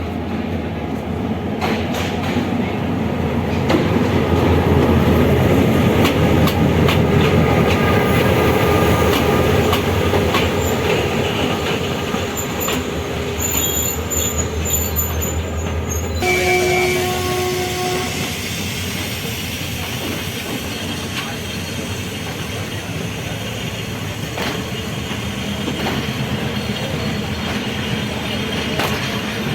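Passenger train running on a hill-country railway, wheels clattering over the rail joints. High wheel squeal comes in around the middle, then a short horn blast just past halfway.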